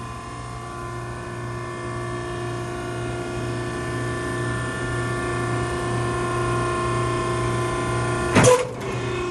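Maren baler's hydraulic power unit running with a steady whine of several tones, slowly growing louder, as the ram works. About eight seconds in there is one short, loud clatter.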